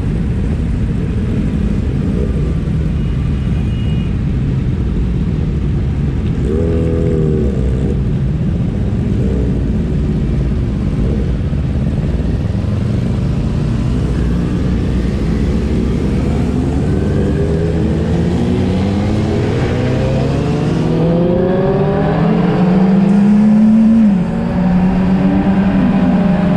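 Several motorcycle engines revving, their notes rising and falling over one another over a low rumble, busiest in the second half. One engine note climbs and then drops sharply near the end.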